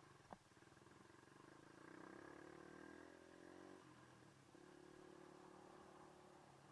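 Faint dirt bike engine running at low revs, swelling a little around two seconds in and easing off near four seconds. A single sharp click about a third of a second in.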